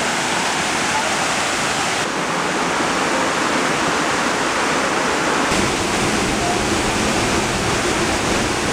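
Loud, steady rush of falling water with no distinct events. Its texture shifts slightly twice, about two and five and a half seconds in.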